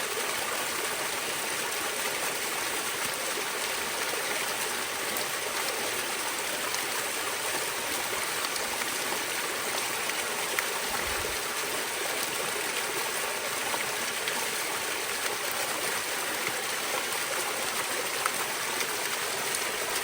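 Small waterfall pouring steadily over rock, a constant rushing splash of rain-swollen runoff, with small ticks of spray among it.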